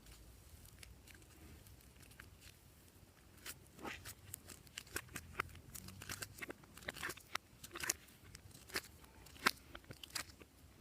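Glossy slime being worked by hand, giving irregular sharp clicks and pops. They are sparse at first and come thick and fast from about three seconds in.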